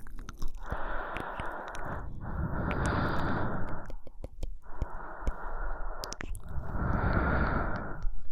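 Close-miked breathing from a woman, slow and even, in and out: about two full breaths, each inhale and exhale lasting a second and a half, with small clicks in the short pauses between them.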